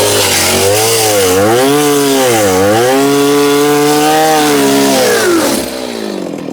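Gas chainsaw with a worn chain cutting. The engine bogs down twice under load and recovers each time, then holds a steady high pitch. Near the end it winds down as the throttle is released.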